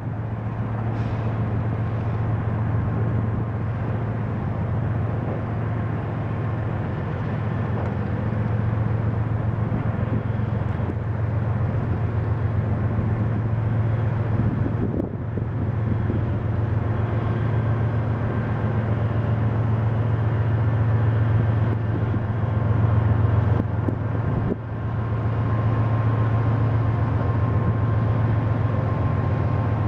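A freight train rolling past, a steady low drone with a continuous rough rumble.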